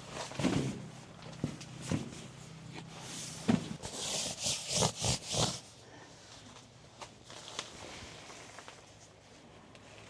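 Things being handled: rubbing and rustling with several short knocks, which stop about six seconds in.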